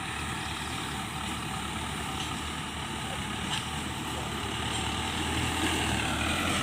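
Diesel tractor engine running steadily under load, slowly growing louder over the last few seconds.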